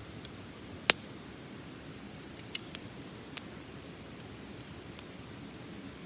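Small wood fire burning in a wire-mesh colander, crackling with irregular sharp pops, the loudest about a second in, over a low steady hiss.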